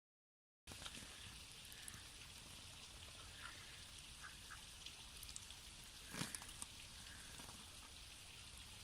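Faint steady hiss of running water, with scattered small ticks and splashes. It cuts in abruptly just under a second in.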